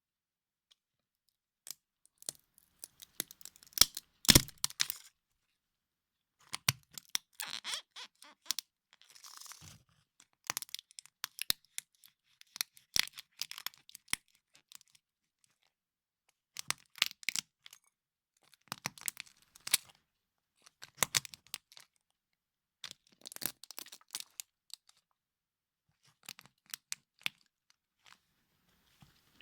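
Plastic toy cars cracking and crunching under a high-heeled shoe, in short clusters of sharp snaps every couple of seconds. The loudest crack comes about four seconds in.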